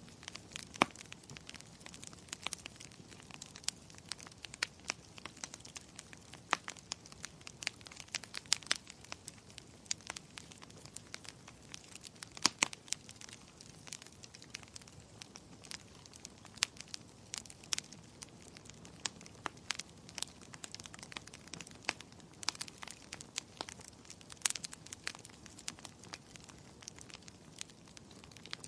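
Wood fire crackling: irregular sharp pops and snaps, several a second, over a soft steady hiss, with a few louder snaps, the loudest about halfway through.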